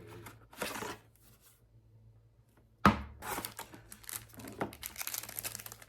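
A sharp knock about three seconds in, followed by a quick run of small clicks and rustling, as of an object being set down and handled.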